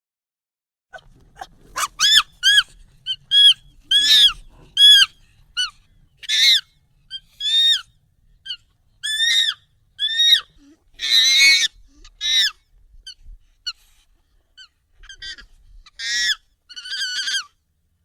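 Monkey calls, sped up and raised in pitch: a quick series of short, high calls one after another, with a longer, rougher call about eleven seconds in.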